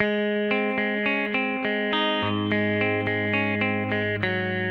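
Guitar picking an arpeggio that outlines an A chord, one note at a time at about three notes a second, with the notes left ringing into each other.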